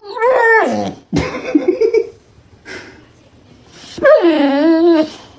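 Dog howling: a howl that falls in pitch, then a short rough bark-like call, then a wavering howl about four seconds in.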